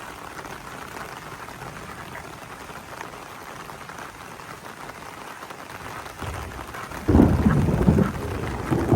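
Heavy rain falling steadily. About six seconds in a low rumble of thunder builds, then breaks much louder and keeps rolling.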